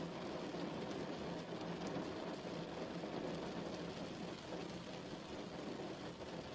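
Steady rainfall, an even hiss with most of its weight low, without music.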